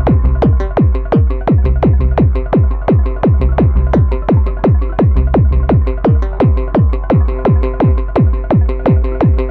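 Korg Electribe 2 groovebox playing a techno pattern live. A pitch-dropping kick drum hits about four times a second under sustained synth tones.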